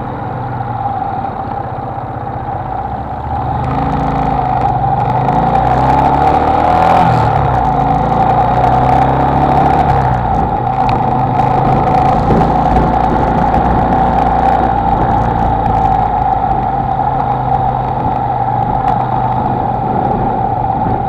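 Honda XLR125R motorcycle's single-cylinder four-stroke engine running on the road. It picks up about four seconds in, with its pitch stepping up and down through several gear changes, then settles to a steadier run.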